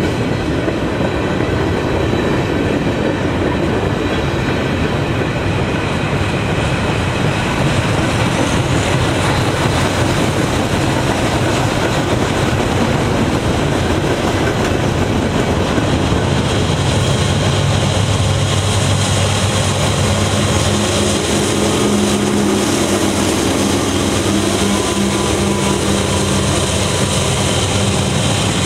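A train rolling past, the steady rumble and clatter of its cars on the rails. Past the halfway point a low, steady drone joins in.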